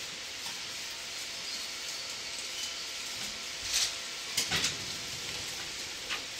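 Steady hiss of a stopped electric train's interior at the end of the line. A cluster of short clicks comes a little past the middle and one more near the end.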